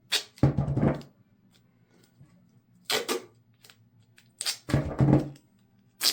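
Duct tape being pulled off the roll and torn, a handful of short, sharp rips with quiet pauses between them.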